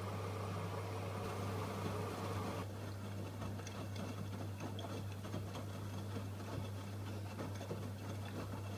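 AEG Öko-Lavamat washing machine running mid-cycle: a steady low hum, with a rushing sound that stops about two and a half seconds in, followed by scattered light clicks.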